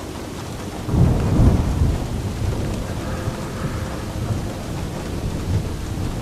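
Steady rain with a roll of thunder that breaks in suddenly about a second in. The thunder is loudest over the next second, then rumbles on low beneath the rain.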